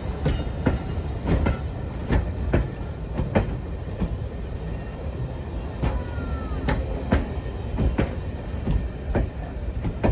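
A train passing at speed, with a continuous low rumble and a run of sharp clicks as its wheels cross rail joints. A brief falling squeal comes about two-thirds of the way through.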